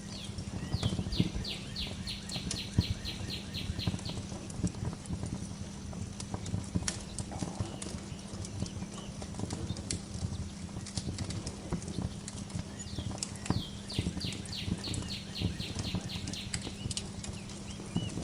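Fireplace crackling, with scattered sharp pops over a steady low rumble. A songbird sings a rapid trill of about a dozen notes near the start, and again near the end.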